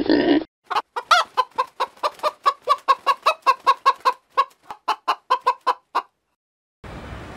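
A hen clucking in a rapid, even series of short clucks, about five a second, for some five seconds.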